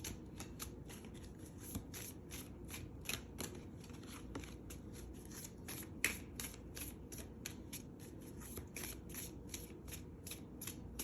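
A deck of tarot cards being shuffled by hand: a quick, steady patter of cards slapping and sliding, several per second, with a louder slap about six seconds in. The shuffling is for drawing a clarifier card.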